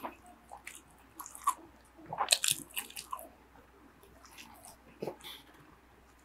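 Close-miked chewing of a mouthful of spam musubi (rice and nori), with short wet, clicky mouth sounds. The chewing is loudest and busiest about two to three seconds in, with a smaller flurry about five seconds in.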